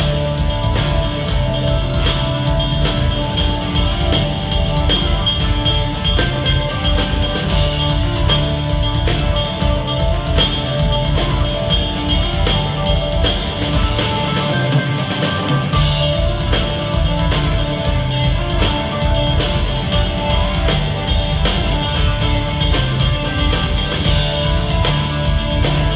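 Live progressive rock band playing, with a busy drum kit of bass drum, snare and cymbals driving under sustained guitar and keyboard lines. The bass and kick drum drop out for about a second near the middle.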